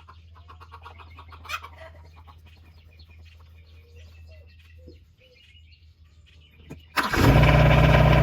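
RK25 compact tractor engine cranking and catching about seven seconds in, then running loud and steady at idle. Before it, faint chicken clucking and a low hum.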